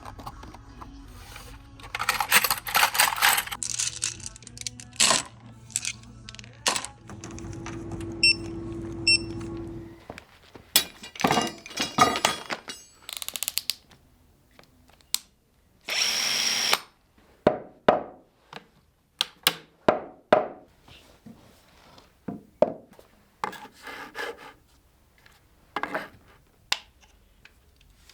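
Electric drill running with a 16 mm auger bit boring long holes into oak for threaded rod; the steady motor hum stops about ten seconds in. After that come a series of sharp knocks and clatters and one short burst of noise.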